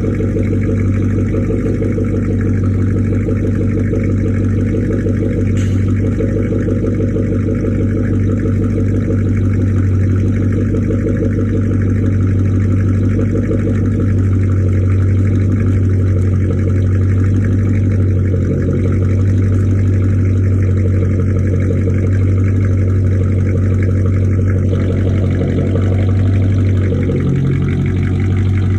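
2006 Dodge Charger's 5.7 L Hemi V8 idling steadily through straight pipes and high-flow catalytic converters, warming up after a cold start. The exhaust note shifts a little near the end.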